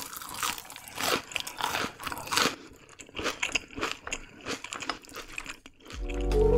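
Crunchy chewing of a fried, breaded snack: irregular crisp crunches, a few each second. Music comes in just before the end.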